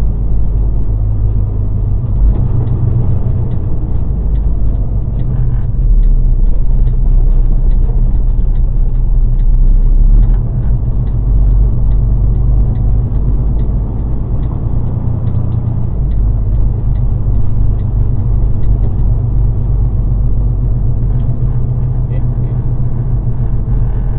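Vehicle engine and road noise: a steady low rumble, a little louder for a few seconds in the middle.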